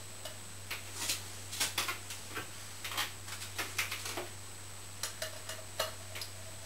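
Irregular light clicks and taps, several a second, from handling fan parts and tools while reassembling a ceiling fan with light. A steady low hum runs underneath.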